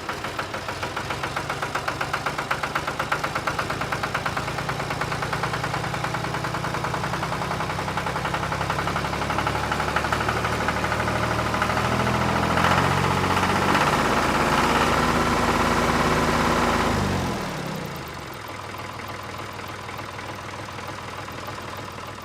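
An engine running with a fast pulsing beat, growing louder in the middle, then dropping in pitch and level about 17 seconds in and running on more quietly.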